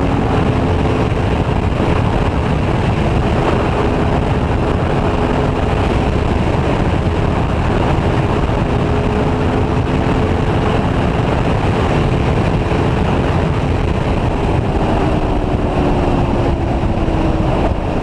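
Aprilia Tuono V4 1100 V4 engine running steadily at cruising speed under heavy wind rush. Its pitch eases down slightly near the end.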